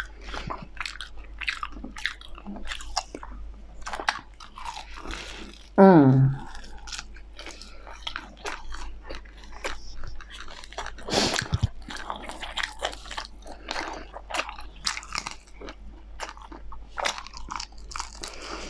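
Close-miked chewing and biting on a chicken drumstick, made up of many small sharp clicks and crackles from the mouth and food. A brief hummed voice sound about six seconds in is the loudest moment.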